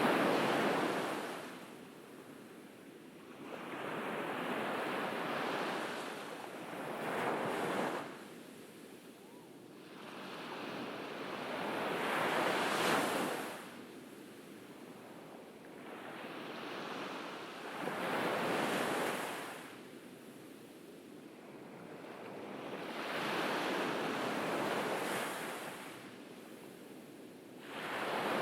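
Ocean waves breaking on a beach and washing up the shore, each surge swelling and fading again about every five seconds.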